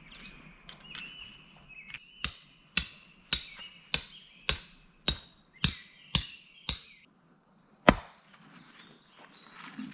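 Rhythmic chopping, about two sharp strikes a second, then a pause and one last, louder strike near the end.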